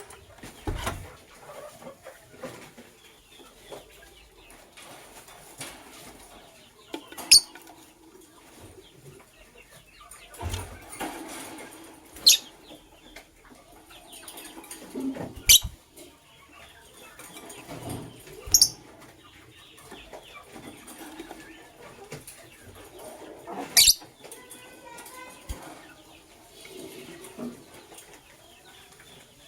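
Lovebirds calling: about five short, shrill chirps spread out over the stretch, with softer chatter and a few low thumps between them.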